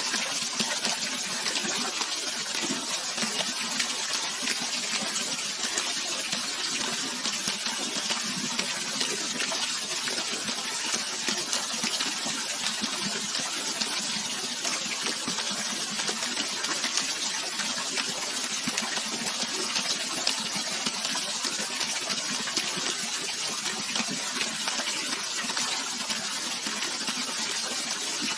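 Running water of a waterfall or stream: a steady, even hiss of splashing with many small spatters, unchanging in level.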